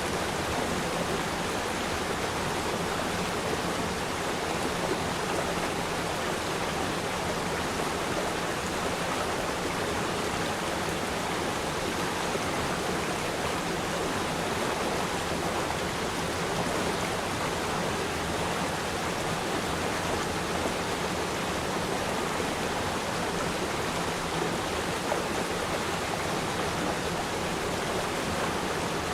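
River stream flowing, a steady, even rush of water.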